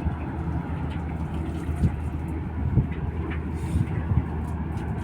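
A vessel's diesel engine running steadily: a low, even drone with a few faint knocks.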